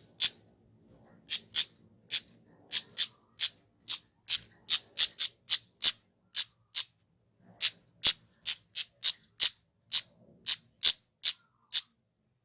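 Flowerpecker (kemade) giving a run of short, sharp, high-pitched ticking call notes, about two or three a second, with a brief pause about halfway through. It is the call used to lure other flowerpeckers.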